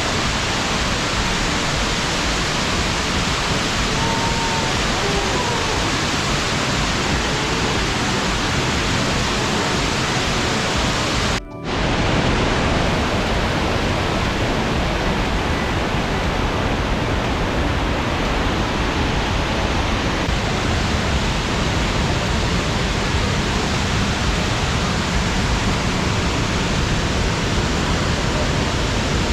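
Fukuroda Falls' steady roar of falling water. It drops out for a moment about eleven seconds in, then resumes unchanged.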